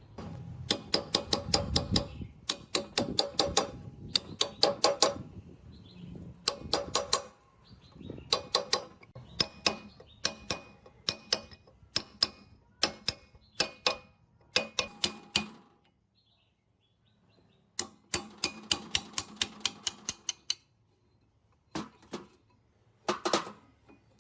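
Quick runs of sharp metallic taps, several a second, on a metal part that rings after each strike. The runs break off with short pauses, and two last short runs come near the end.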